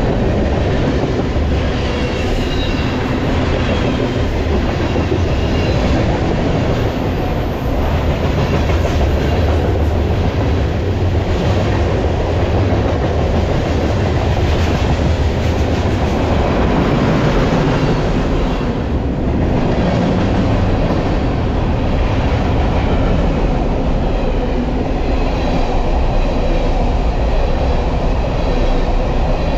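BNSF freight train running, heard from aboard: a steady, loud rumble and rattle of steel wheels on the rails and of the cars.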